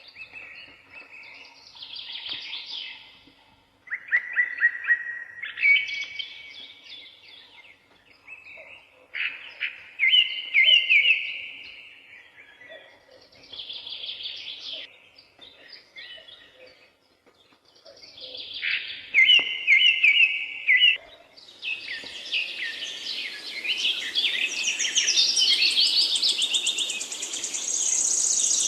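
Eurasian magpie calling in short, rapid chattering phrases, one every few seconds. In the last third the calling becomes denser and reaches higher, over a steady rushing noise.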